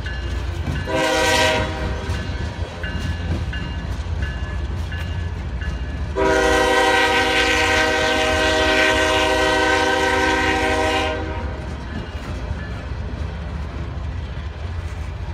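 Norfolk Southern diesel freight locomotive's multi-chime air horn sounding a short blast, then a long blast of about five seconds, over the steady low rumble of the passing train.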